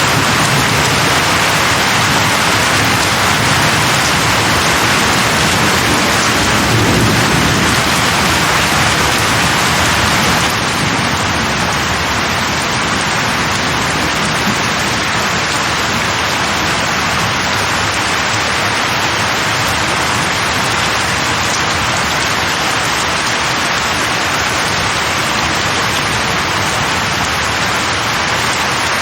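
Steady heavy rain falling on leaves, with a low rumble of thunder about six to eight seconds in. About ten seconds in, the rain turns slightly softer and duller.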